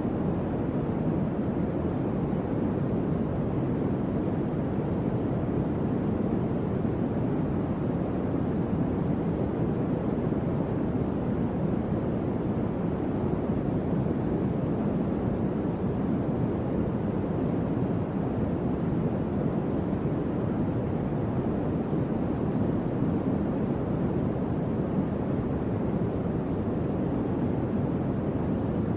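Electric fan running steadily: an even, low whooshing of moving air with no changes.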